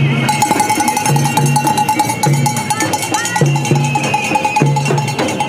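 Din of a marching street demonstration: percussion beaten in a steady rhythm about twice a second, under a continuous wavering ringing tone, with a few short rising whistles about three seconds in.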